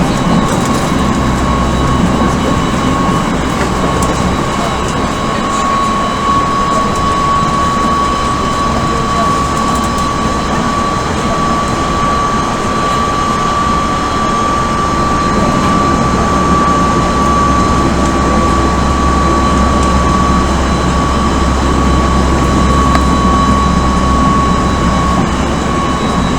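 Odakyu 1000 series electric train with Mitsubishi GTO-inverter traction equipment, heard from inside the car running at speed. A steady high whine from the traction motors sits over the rumble of wheels on rail.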